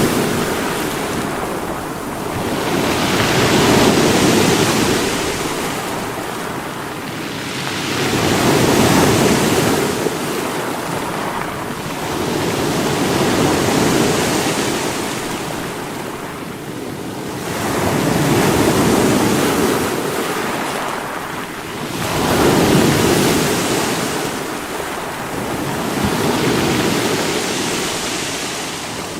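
Sea waves breaking against rocks, surging and falling back in steady swells about every four to five seconds.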